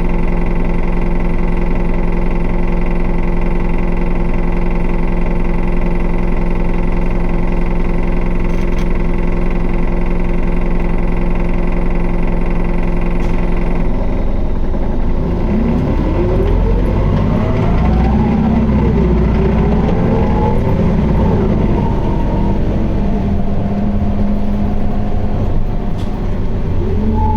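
Diesel engine of a city bus (QDG-LV290N1) heard from inside, running steadily at first. About halfway in the sound roughens, with whining pitches sliding up and down as the bus works under load.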